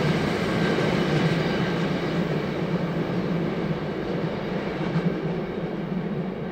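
Train running along the track with a steady rumble that slowly fades as it moves away.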